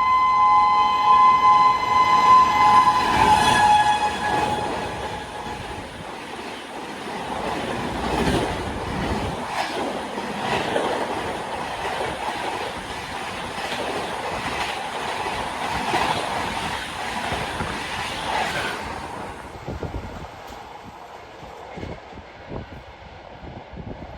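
Shrill two-tone horn of a WAP7 electric locomotive, held for about three seconds and ending as the locomotive passes. Then the express coaches rush past at high speed with a rhythmic clickety-clack of wheels on the rail joints, which drops away about nineteen seconds in as the train recedes.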